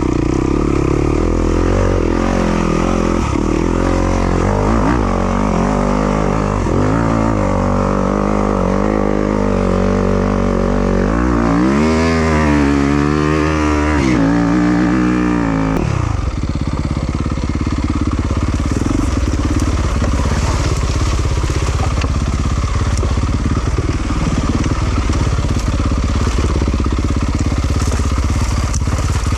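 Yamaha YZ250FX dirt bike's 250cc four-stroke single-cylinder engine being ridden, its pitch rising and falling with the throttle. About halfway through it revs up and down several times in quick succession, then settles into a lower, steadier note.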